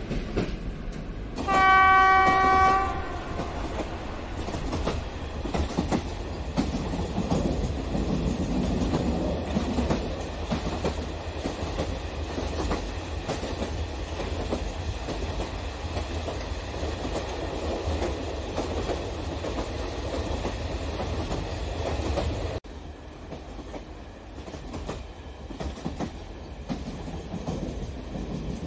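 Model train's horn sounds once, a single steady note lasting just over a second near the start. Then the wheels of the loaded flat cars rumble and click steadily along the track, a little quieter from about twenty-two seconds in.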